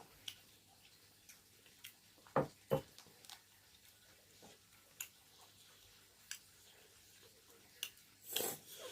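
Irregular light clicks and knocks, with two louder knocks close together about two and a half seconds in and a short rustling swell near the end.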